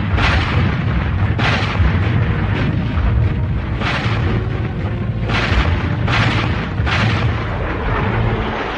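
Cartoon artillery fire and explosions: a series of about six loud blasts a second or two apart over a constant low rumble.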